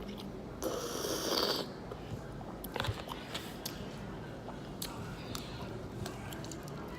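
Eating sounds close to the microphone: chewing with scattered small clicks, and a brief rustling scrape about a second in.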